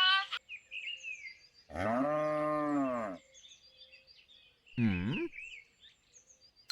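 A cow mooing: one long, low moo that rises and falls, then a shorter second moo about five seconds in, with faint bird chirps between. The tail end of a horse's whinny fades out at the very start.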